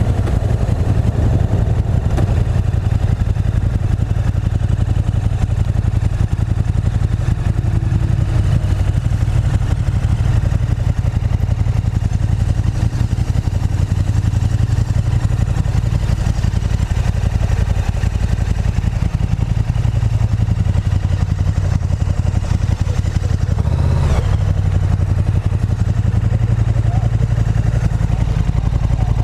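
KTM 1290 Super Duke GT's V-twin engine running steadily at low revs. One short knock sounds about three quarters of the way through.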